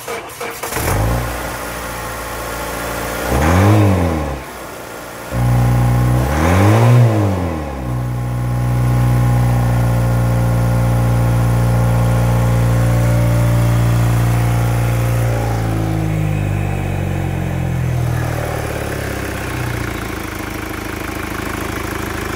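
2015 Mazda CX-5 SkyActiv engine started and briefly revved. It goes quiet for about a second, is started again, and revved once more. It then holds a steady raised idle that drops and settles lower from about fifteen seconds in.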